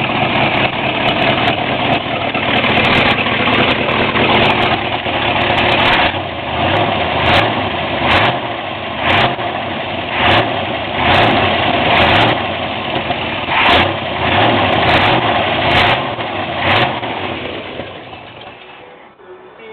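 Chevrolet Caprice lowrider's engine running loudly, then revved in about ten short blips roughly a second apart. The sound falls away near the end.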